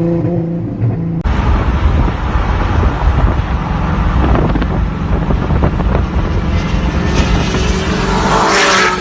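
Single-turbo Nissan 370Z driving at cruise, its engine a steady drone. About a second in, a sudden loud rush of wind and road noise takes over and swells near the end.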